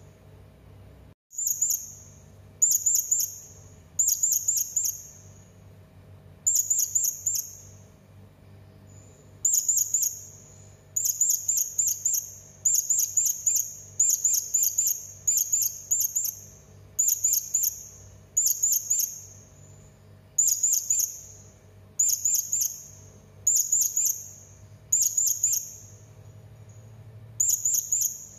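Serindit (hanging parrot) calling over and over: short, shrill bursts of three to five very high, quick chirps, one burst every one to two seconds, played as a lure call to set other birds calling. A faint low hum runs underneath, and the sound drops out briefly about a second in.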